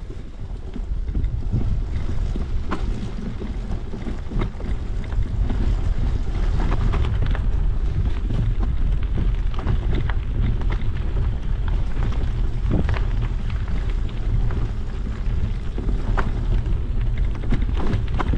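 Bicycle riding along a rough trail: wind rumbling steadily on the microphone, with frequent short rattles and knocks from the bike over the bumps.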